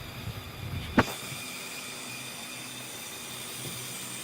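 Lego helicopter model being handled while its winch is worked: one sharp plastic click about a second in, over a faint steady hiss.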